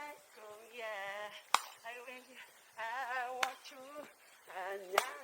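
A woman's voice singing a few wavering, vibrato-heavy phrases, broken by three sharp clicks about two seconds apart.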